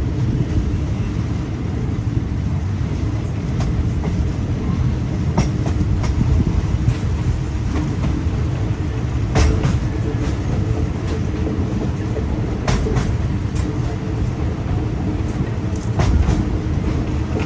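Passenger train running on the rails: a steady low rumble with occasional sharp clicks from the wheels.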